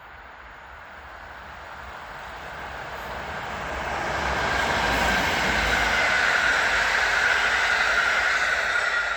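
Train running past on the line, growing louder over the first few seconds and then holding at its loudest, with a high steady tone over the rumble of the wheels.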